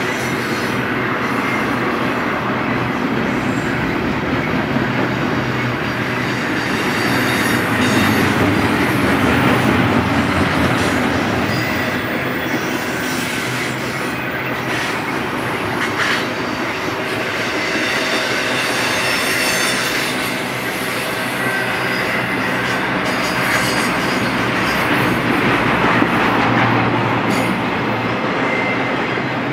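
Double-stack container well cars of a freight train rolling past: a steady rumble of steel wheels on the rails, with occasional sharp clicks.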